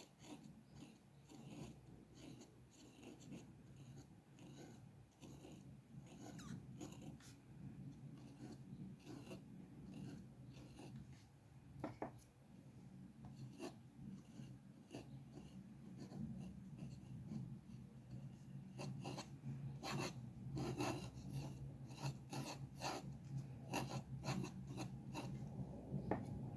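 Drawing strokes scratching on paper: many short, irregular strokes, denser and louder in the last third, over a faint low hum.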